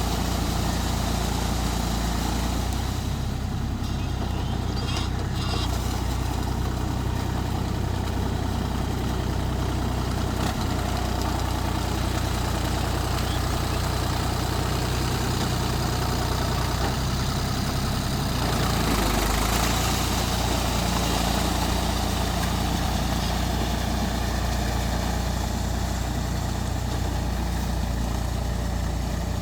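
Mahindra 275 DI TU tractor's three-cylinder diesel engine running steadily. A broader noise swells for a couple of seconds about two-thirds of the way through.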